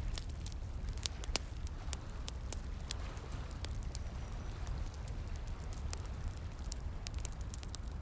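Wood fire crackling, with many sharp irregular pops and snaps, over a steady low rush of flowing water.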